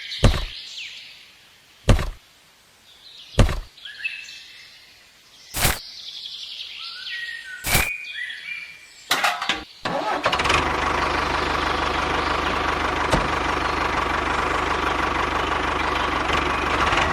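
A small engine falls quiet, followed by a few sharp knocks, one every second or two, and birds chirping. About ten seconds in the engine is running steadily again.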